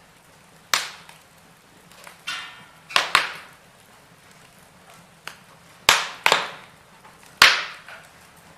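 Wood fire in a fireplace crackling: sharp, irregular pops and snaps of burning logs, about one every second, with a short hiss about two seconds in.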